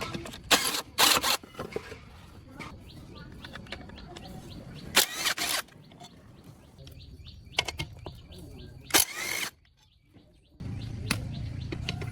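Intermittent knocks and clatter of tools and parts being handled during repair work, with a few high chirps about seven seconds in; a steady low hum starts near the end.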